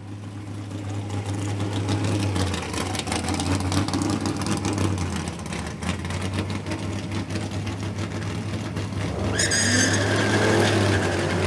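Drag cars' engines running at the start line, a steady low tone throughout. Near the end a high squeal comes in and the engine pitch starts to climb as one car revs.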